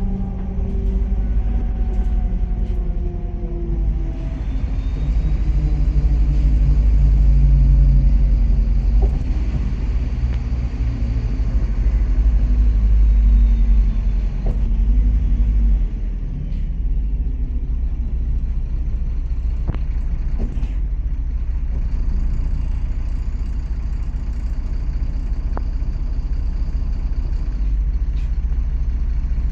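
MAZ-103 city bus running on the road, heard from on board: the engine and drivetrain run with a heavy low rumble and road noise. The engine note falls over the first few seconds as the bus slows, then holds steady, with a few sharp clicks about two-thirds of the way through.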